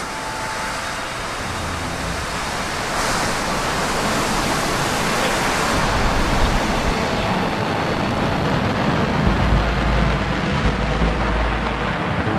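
Rocket engine firing, as on Blue Origin's New Shepard with its BE-3 engine: a dense, steady roar with a deep rumble underneath, growing somewhat louder over the first few seconds.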